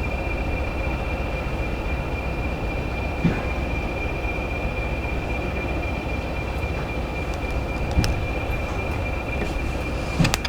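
Heritage railway train running: a steady rumble with a constant high-pitched squeal-like tone and a few sharp knocks.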